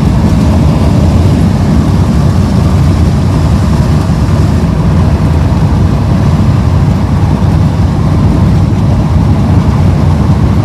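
Strong wind buffeting the microphone: a loud, steady low rumble with no distinct tones, cutting off suddenly at the end.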